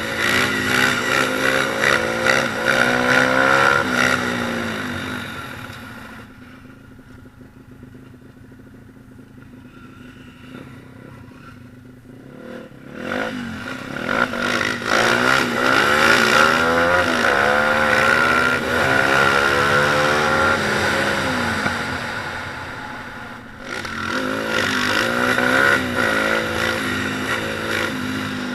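Small single-cylinder pit bike engine revving, its pitch climbing and dropping repeatedly as it accelerates and shifts. It fades away for several seconds in the middle, then comes back loud.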